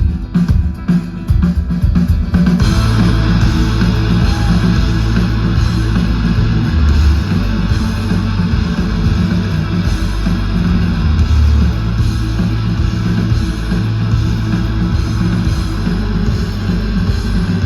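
Rock band playing live and loud: the drums are heard at first, then the full band with guitars comes in about two and a half seconds in and holds a dense, steady wall of sound.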